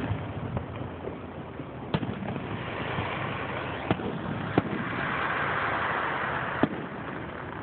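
Fireworks bursting: four sharp bangs a second or two apart, with a hiss that swells between them from about three seconds in and cuts off at the last bang.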